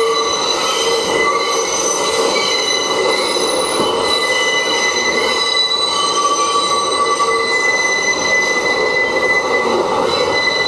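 New York City subway 6 train of R62A cars rounding the tight curve of the City Hall loop. Its wheels squeal steadily against the rails in several held high tones over the running noise of the train.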